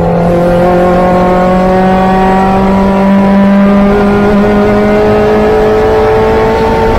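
Opel Speedster's mid-mounted four-cylinder engine under full throttle, pulling hard through one gear with its pitch climbing slowly and steadily.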